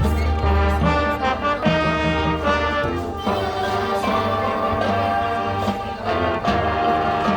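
High school marching band playing its field show: brass section sounding sustained chords over a low bass line, with percussion hits.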